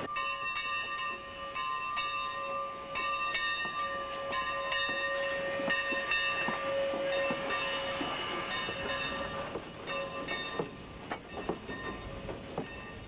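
Steam-hauled passenger train running, with several steady high tones sounding together over it for about ten seconds before dying away, and clicks from the wheels on the track.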